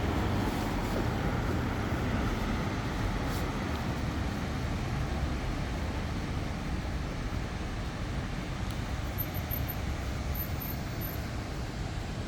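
Night-time city street traffic noise: a steady rumble of passing vehicles, loudest at the start and slowly easing off.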